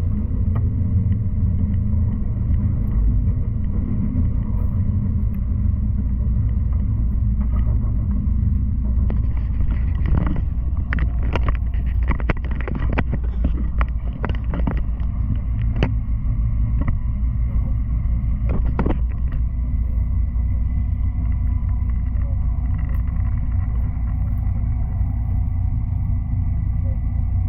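Cabin noise of an N700 series Shinkansen running at speed: a steady low rumble with a faint steady whine, and a run of sharp clicks and knocks in the middle.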